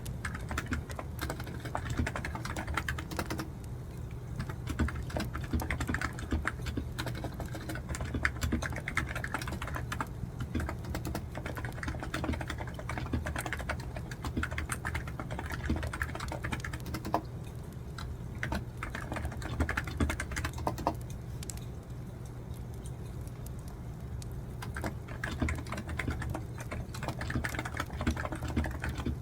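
Continuous typing on a computer keyboard: rapid, irregular key clicks with short pauses between bursts.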